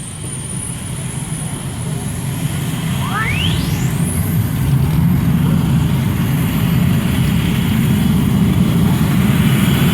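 Engine of a pulling vehicle at full power, dragging the weight-transfer sled down the track, a dense low rumble that grows steadily louder. About three seconds in, a high whine sweeps sharply upward.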